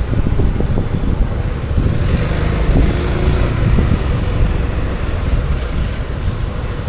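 Wind buffeting the microphone of a camera riding on a moving Honda Forza 350 scooter: a loud, steady low rumble, with the scooter's single-cylinder engine and road noise underneath.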